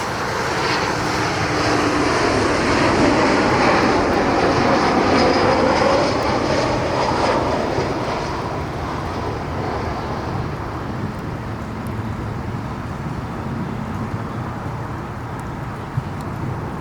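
Jet airliner passing overhead on landing approach: engine noise swells to a peak with a falling pitch as it goes by, then fades away.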